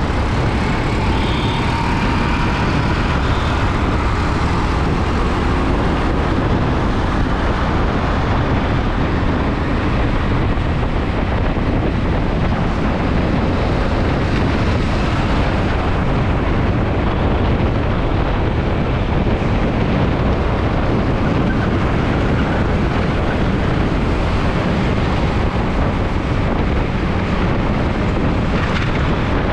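Steady wind and road rumble on the microphone of a scooter riding through city traffic.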